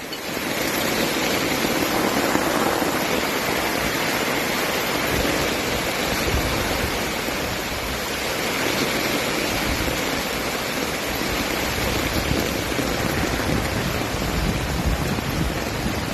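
Steady rushing of water from heavy tropical rain and flowing floodwater, an even hiss with no pauses.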